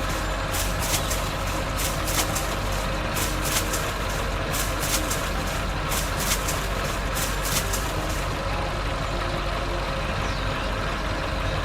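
A vehicle engine running steadily with a low rumble, with a scatter of sharp clicks through the first two-thirds.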